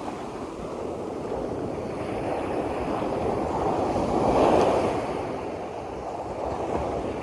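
Sea waves surging and breaking against the shore, with a bigger wave swelling up and crashing about four seconds in; wind buffets the microphone.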